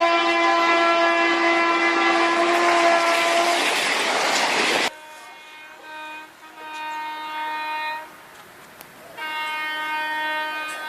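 Train horn: one long loud blast over the noise of a moving train, cut off abruptly about five seconds in, followed by two quieter, shorter horn blasts.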